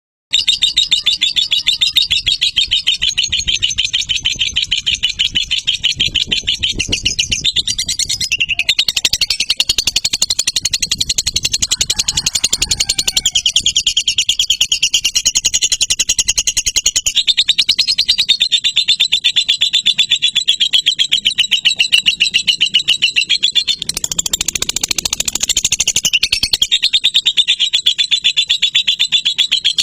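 Lovebird giving a long, unbroken ngekek: a very fast, high, chattering trill that keeps going without a break.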